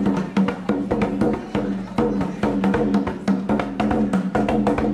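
Hand drum played by hand in a fast, driving rhythm of sharp slaps and ringing bass tones, stopping abruptly at the end.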